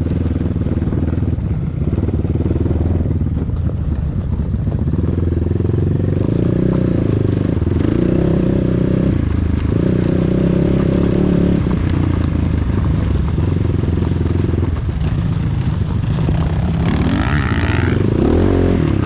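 Enduro motorcycle engine running, holding a few steady engine speeds for a second or two at a time with short dips between.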